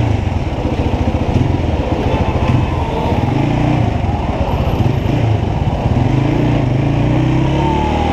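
Motorcycle engine running while riding, its pitch rising and falling with the throttle, over a steady rush of noise.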